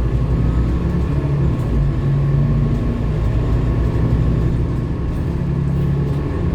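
Scania K230UB city bus's diesel engine running, a steady low drone with a faint steady whine above it.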